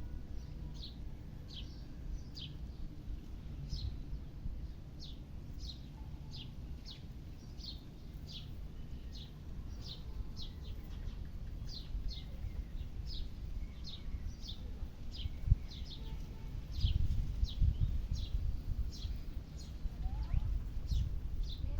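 A bird repeating a short, high, falling chirp, nearly two a second, over a low rumble that grows louder in the last few seconds.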